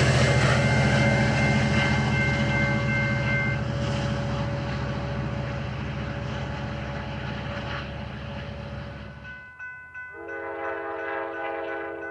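Passenger train passing, its rumble fading steadily as it moves away. About ten seconds in, a crossing bell rings at a steady beat while a train horn sounds a short chord.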